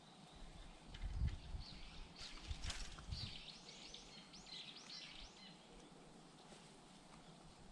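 A small bird singing faintly: a quick run of short, arched chirping notes about three to five seconds in, over low outdoor background noise with a couple of soft low thumps.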